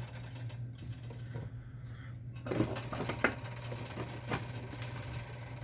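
A few light clinks and knocks of kitchen utensils and cookware over a steady low hum, while oil heats in a wok.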